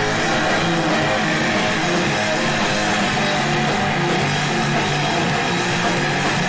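Live noise-rock recording: loud, heavily distorted electric guitar holding sustained chords over drums.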